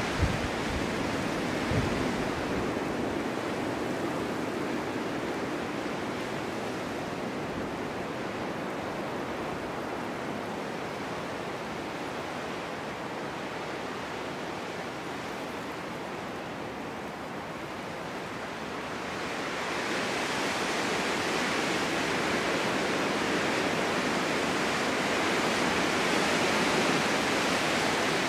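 Snowstorm wind blowing steadily, easing somewhat in the middle and then swelling louder about two-thirds of the way through. There are a couple of low bumps near the start.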